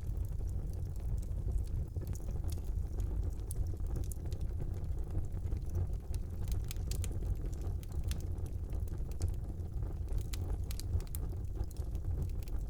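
Wood fire burning in a brick fireplace: a steady low rumble of the flames with frequent small crackles and pops scattered throughout.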